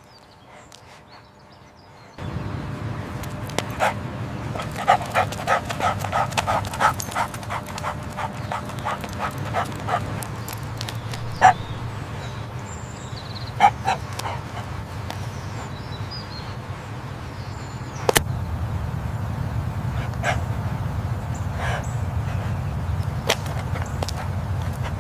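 A dog making a quick run of short, rhythmic sounds about three a second, with a few sharper single sounds later, over a steady low rumble that starts about two seconds in and grows louder near the end.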